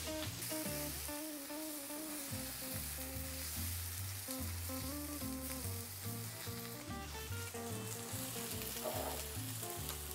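Chopped eggplant, peppers and cherry tomatoes sizzling as they fry in a cast iron skillet, stirred with a silicone spatula. Background music with a melody and bass line plays over it.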